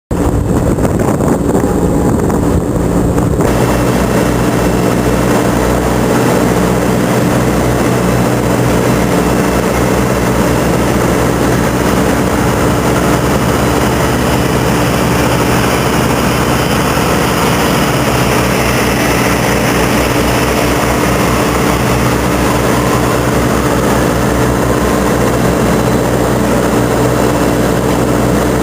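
Large vehicle engine running with a steady drone; the sound fills out and grows fuller about three and a half seconds in.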